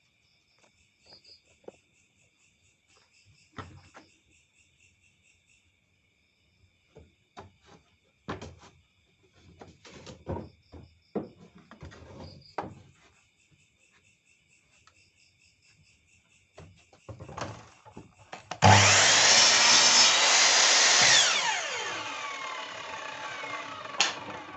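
Scattered knocks and clicks of handling wood and tools, with insects chirping steadily, then an electric wood router switched on near the end, running at full speed for about two seconds and spinning down with a falling whine after it is switched off.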